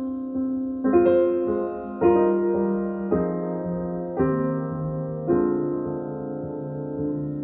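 Jazz piano playing a slow sequence of sustained chords, a new chord struck about every second. It is album playback through hi-fi loudspeakers, picked up in the listening room.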